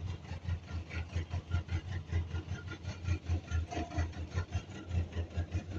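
Car engine idling: a low, even throb pulsing about five times a second.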